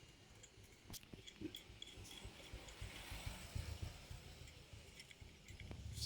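Faint, scattered metallic clicks and light taps of motorcycle clutch parts being fitted by hand, with a sharper click about a second in.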